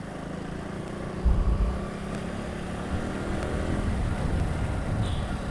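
Motorcycle engine running steadily while riding, with low wind rumble on the microphone and a brief stronger low buffet about a second in.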